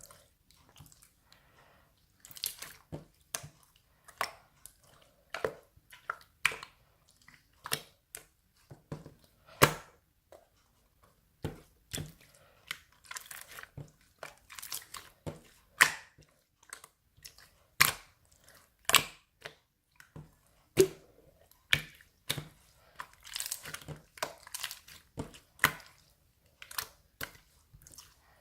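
Ocean-themed slime being squeezed and pressed by hand: irregular sharp pops and clicks, about one or two a second, with short crinkly, crunchy stretches in between.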